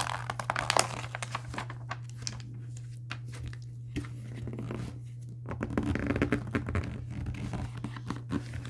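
Paper rustling and crinkling with scattered light clicks and taps, as a picture book's pages are handled, over a steady low hum.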